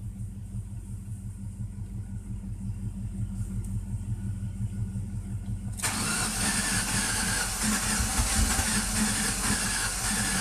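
1997 Ford Taurus engine cranking over on its starter without catching, a fast even churning. About six seconds in it turns suddenly louder and hissier and keeps cranking. This is the crank-no-start fault, with a new fuel pump fitted and spark present.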